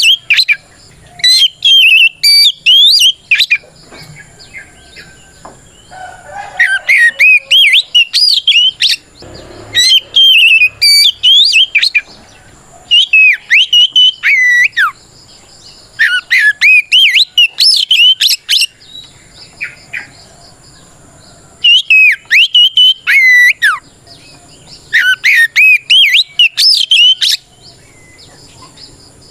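Oriental magpie-robin singing a loud, full-voiced territorial challenge song: rapid phrases of varied whistled notes sweeping up and down, in bursts of one to three seconds with short pauses between.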